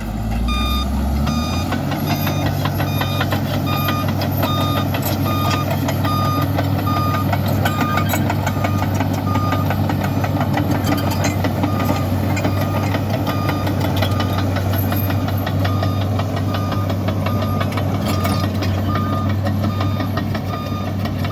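Bulldozer diesel engine running steadily while its reversing alarm beeps at an even pace, about once every three quarters of a second, with scattered clanks.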